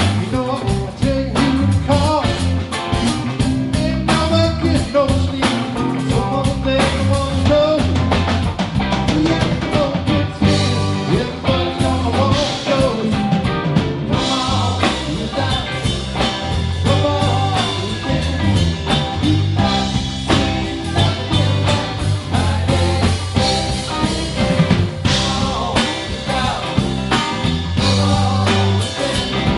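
A rock band playing a blues-rock song with electric guitar, bass and drums. A wavering lead melody line stands out in the first half over a steady bass line and beat.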